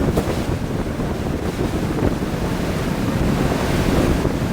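Wind buffeting the microphone on a moving harbour tour boat, with water rushing past and a steady low rumble underneath.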